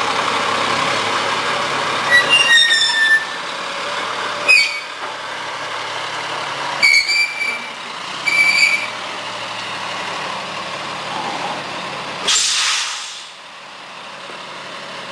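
Heavy truck's diesel engine running, with four short high-pitched brake squeals, then a burst of air-brake hiss about twelve seconds in, after which the engine sound fades.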